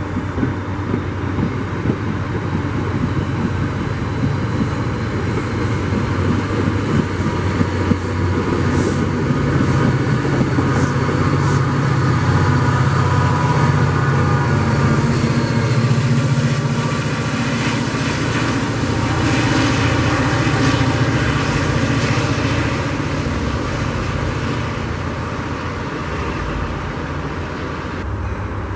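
NJ Transit commuter train of single-level coaches passing at speed: a steady rumble of wheels on the rails with a hiss. It grows louder for the middle stretch and eases off near the end.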